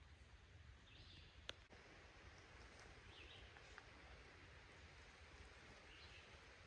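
Near silence: faint woodland ambience with a few soft, high bird chirps and a single sharp click about a second and a half in.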